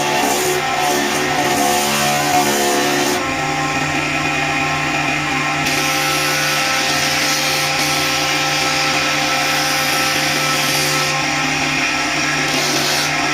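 Electric power tool with a motor running steadily at an even pitch, with a hiss over it that grows and fades a few times as the tool works the wood of a cricket bat.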